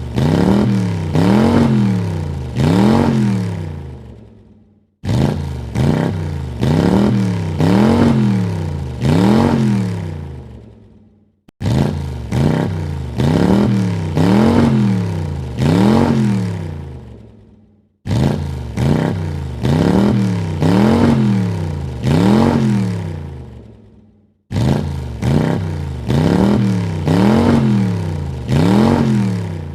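Car engine revved in a quick run of throttle blips, the pitch climbing and dropping with each one, then dying away. The same rev sequence repeats about every six and a half seconds, with a short silence between repeats.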